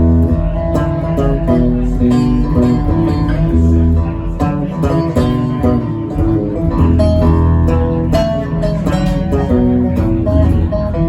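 Band music with guitars and bass playing a song.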